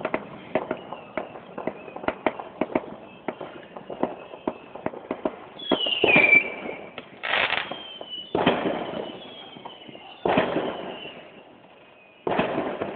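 Fireworks going off: rapid crackling for the first half, then a falling whistle about six seconds in, followed by four louder bangs that each die away, with faint whistles between them. Heard through a phone's microphone, which cuts off the high end.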